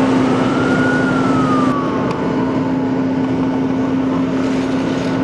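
An emergency-vehicle siren wailing, one slow rise and fall of pitch in the first two seconds, over a steady low hum and outdoor noise.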